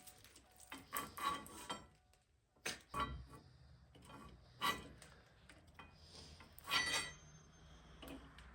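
Metal tools and hardware being handled: a handful of sharp metallic clanks and clinks at uneven intervals, each ringing briefly, with a low steady hum from about three seconds in.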